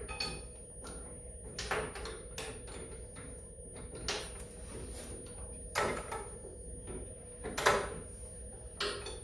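Metal wrench clinking and scraping on a nut in short separate strokes, one every second or so, as the nut is worked loose a fraction of a turn at a time. A faint steady hum runs underneath.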